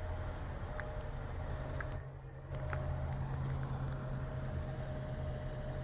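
Engine of a 1965 Ford bucket truck running with a steady low hum. It eases off briefly about two seconds in, then comes back louder half a second later.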